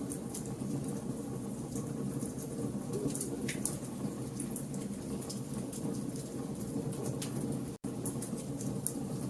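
Campfire with burning logs crackling: a steady low rumble of the fire with scattered sharp pops and crackles at random. The sound drops out for an instant about eight seconds in.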